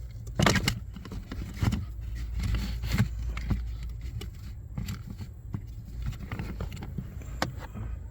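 New pleated cabin air filter being handled and slid into its plastic housing behind a car's glove box: irregular scrapes, rustles and plastic clicks, the loudest about half a second, a second and a half, and three seconds in, over a low steady hum.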